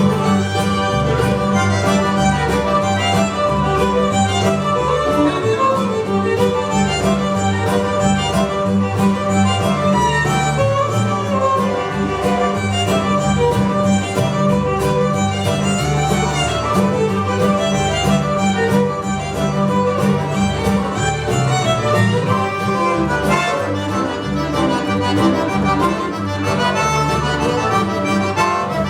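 Cajun string band playing an instrumental tune: fiddle leading, with accordion and guitar, over a steady, regularly pulsing bass line.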